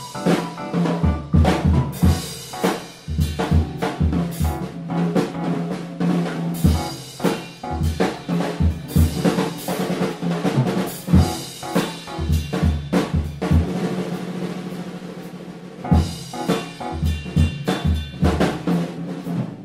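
A live jazz band playing, with a busy drum kit (bass drum, snare and rimshots) driving over sustained bass notes. The drumming thins out briefly about three quarters of the way through.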